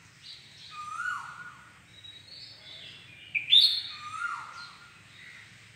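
A bird calling repeatedly: a short call with a downward-sliding note and higher chirps, coming about every two and a half seconds, loudest about three and a half seconds in.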